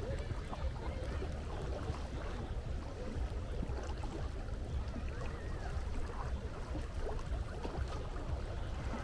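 Seashore ambience: a steady low rumble of sea and wind, with faint, scattered higher sounds on top.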